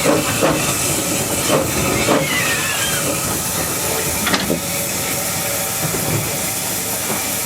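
Narrow-gauge steam locomotive hissing steam steadily, with several irregular metallic clanks and a brief squeal about two seconds in.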